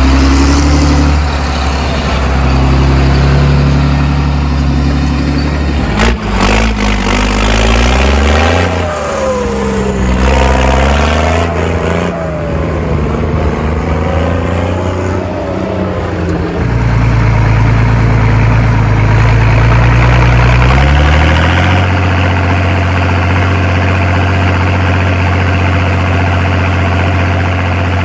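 Cartoon vehicle engine sound effects: a steady engine hum that steps to a new pitch every few seconds, with revving that rises and falls partway through.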